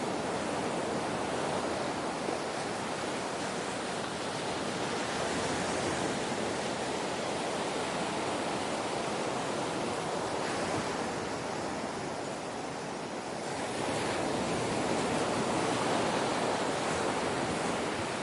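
Ocean waves washing in a continuous rushing hiss that swells and eases gently, dipping about thirteen seconds in and building again just after.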